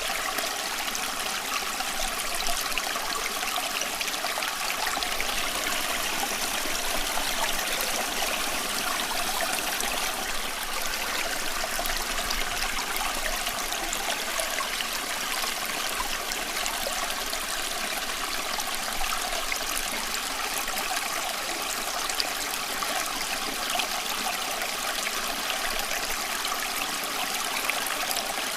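Running water flowing and trickling steadily, an even splashing hiss with fine droplet ticks and no change throughout.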